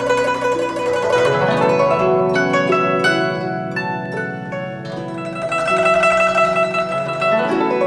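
Chinese instrumental light music led by a guzheng (Chinese zither), rapid plucked notes ringing over a sustained low accompaniment.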